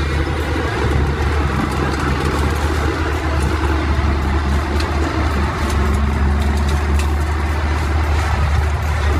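A large engine running steadily with a deep, even drone, typical of heavy machinery.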